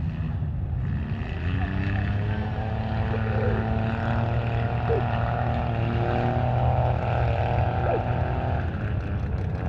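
Competition truck's engine running steadily under load, with its note holding a fairly even pitch.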